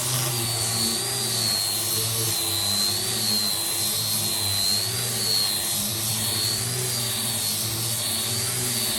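An electric motor tool running steadily, with a high whine that wavers slightly up and down in pitch.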